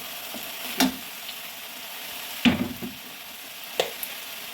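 Mushrooms stir-frying in a pan: a steady sizzle, with the spatula knocking against the pan three times, loudest about halfway through.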